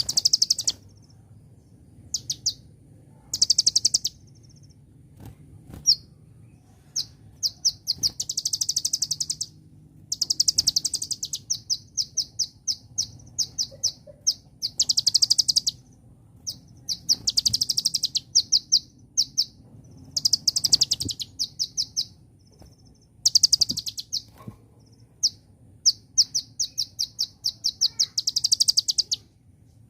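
Kolibri ninja, a small sunbird, singing: bursts of very fast, high-pitched trilled notes, a dozen or so phrases with short pauses between them.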